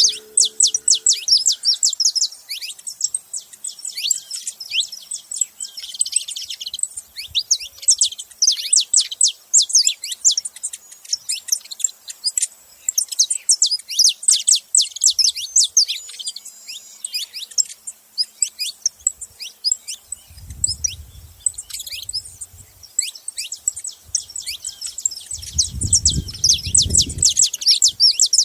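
Saffron finches chirping: a dense, continuous stream of short, high, downward-sliding calls. Twice in the latter part, about 20 s and 26 s in, a low rumbling noise sounds under the chirps.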